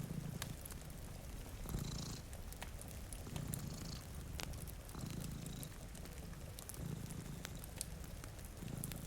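Domestic cat purring in slow, even pulses, one breath about every one and a half to two seconds, over scattered small crackles from a fire and a faint hiss of rain.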